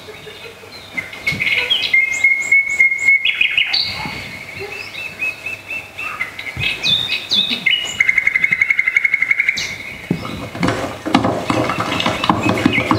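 Recorded bird calls played as a soundtrack over speakers: chirps and whistles, a held whistle about two seconds in and a fast trill about eight seconds in. A louder, denser mix of sound joins about ten seconds in.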